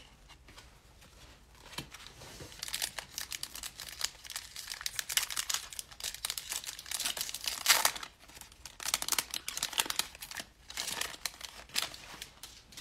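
Cellophane wrapper of a trading card pack being torn open and crinkled, a dense crackling that starts a couple of seconds in and goes on until near the end.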